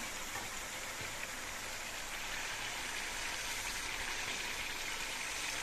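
Chicken pieces, spices and chopped tomatoes sizzling steadily in hot oil in a non-stick frying pan as they are sautéed.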